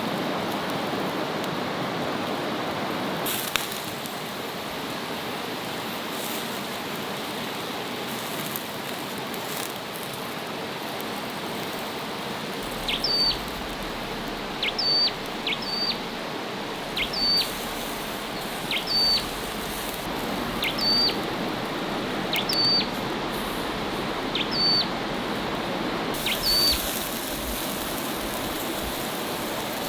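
A bird calling repeatedly: about nine short, sharply upward-sweeping chirps, roughly one every two seconds, starting about halfway through. They sound over a steady rushing background noise.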